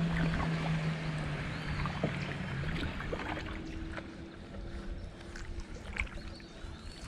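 Kayak paddling: water swishing and dripping off the paddle, with small knocks. A steady low drone runs through the first few seconds and stops, and a higher steady drone follows for a couple of seconds. A bird chirps briefly near the end.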